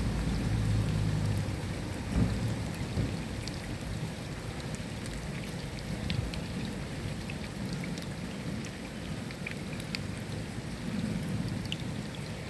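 Steady rain with scattered individual drops ticking. A low rumble of thunder during the first couple of seconds fades away, leaving the rain.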